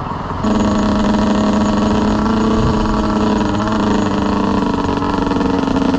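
Dirt bike engine running at a steady, fairly high idle, cutting in suddenly about half a second in and holding an even pitch.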